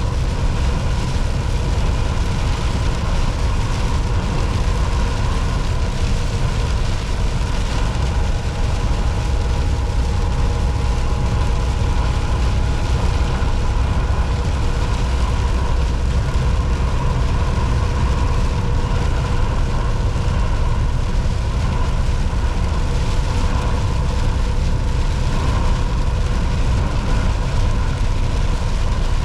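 Volvo VNL 760 semi truck cruising at highway speed: a steady low engine drone and road noise, with a faint steady whine over it.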